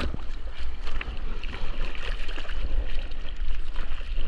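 Sea water sloshing and splashing around a GoPro camera held in the surf, with a steady low rumble of water and wind on the microphone.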